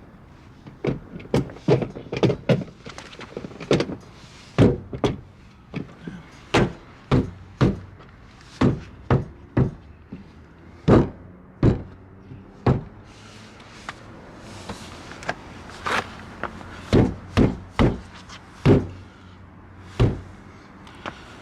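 Irregular series of dull knocks and taps, as a plastic side-skirt trim piece is pressed and smacked into place along the car's lower body.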